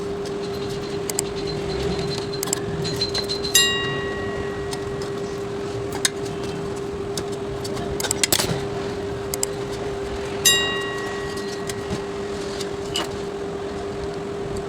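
Workbench handling sounds over a steady hum: small clicks and taps, with two sharp metallic clinks that ring briefly, about three and a half seconds in and again about ten and a half seconds in.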